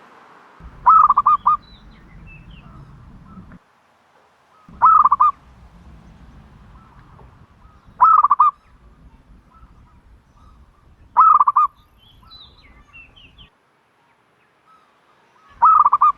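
A dove calling loudly, five times about every three to four seconds, each call a quick run of three or four short cooing notes. Faint chirps of small birds sound between the calls.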